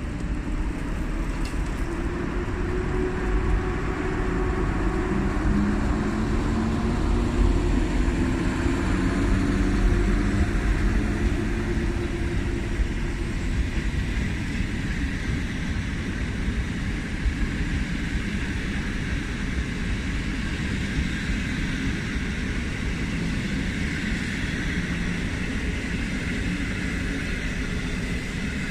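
Electric locomotive hauling a passenger train pulls out and passes close by, its whine dropping in pitch as it goes past. The steady rolling noise of the coaches follows and eases off slightly near the end.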